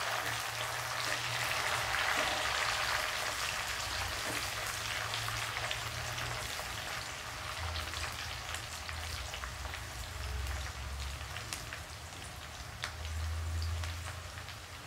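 Chopped onions and garlic sizzling in hot oil in an aluminium kadhai, a steady hiss with many small crackles that eases slightly toward the end.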